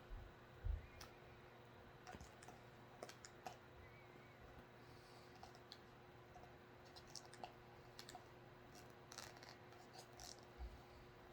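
Faint, irregular clicks and scratches of a cockatoo's beak working at a jar lid.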